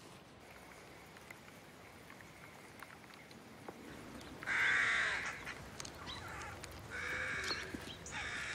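Three harsh, cawing bird calls over a faint forest background: a longer call about four and a half seconds in, then two shorter ones near the end.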